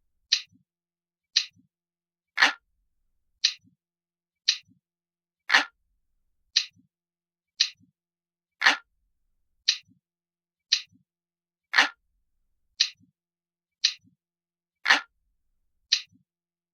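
Analog clock ticking steadily, about one tick a second, with every third tick louder and fuller.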